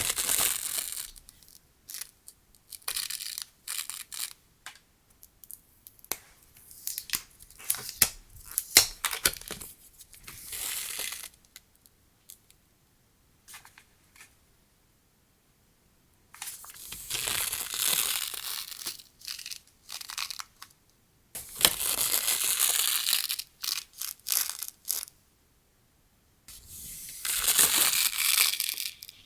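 Stationery packaging being handled and torn open: scattered crinkles and clicks, then three tearing sounds of two to three seconds each in the second half.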